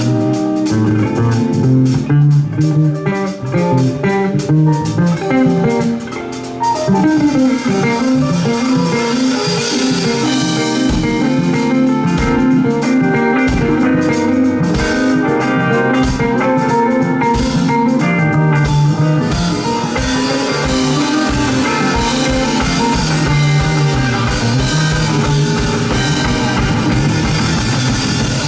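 Live band playing an instrumental passage: guitar lead over bass and drum kit, with a steady kick-drum beat from about ten seconds in.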